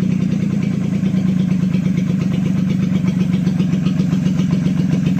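Carburetted petrol car engine idling steadily outside the car, with an even, rapid firing beat, fuel gravity-fed to the carburettor from a raised bottle.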